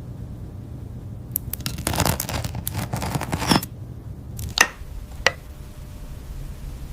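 Crinkling, scraping handling noises for about two seconds, then two sharp clicks, over a low steady hum.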